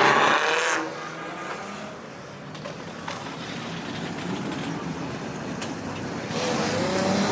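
Car engines running with steady traffic noise, louder for the first second, with a faint voice near the end.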